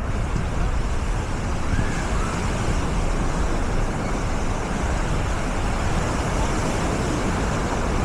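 Steady wash of surf on a beach, with wind rumbling on the microphone.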